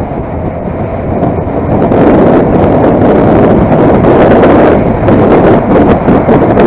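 Wind rushing over the microphone of a moving motorcycle, with road noise underneath. It grows louder about two seconds in.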